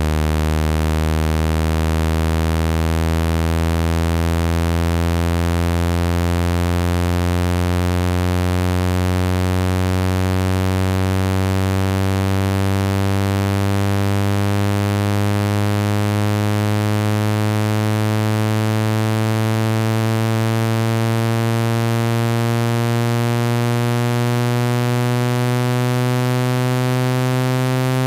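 Synthetic speaker-cleaning tone made to vibrate water out of a phone speaker: a loud, low, buzzy tone whose pitch glides slowly and steadily upward.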